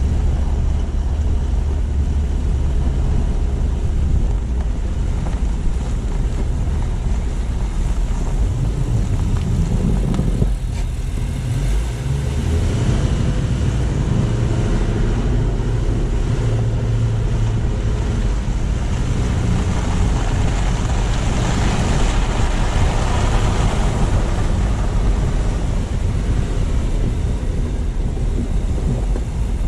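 Car driving: a steady low rumble of engine and road noise with tyre hiss. It dips briefly about ten seconds in, and the hiss swells louder about two-thirds of the way through.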